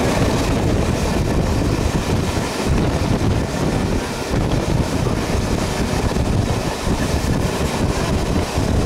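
Steady rumble of a moving passenger train, heard from an open window or door, with wind rushing over the microphone.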